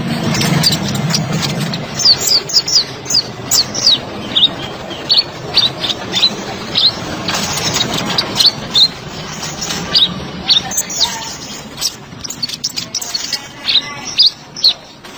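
Kolibri ninja (konin) sunbird singing: a rapid run of short, high chirps, each sliding down in pitch, several a second.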